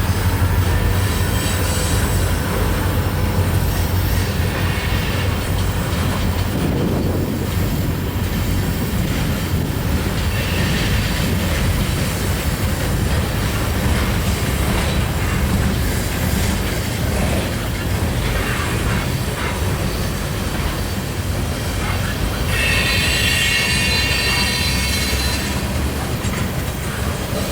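Norfolk Southern freight train rolling past with a steady rumble. Its wheels squeal on the rails twice, about ten seconds in and again near the end.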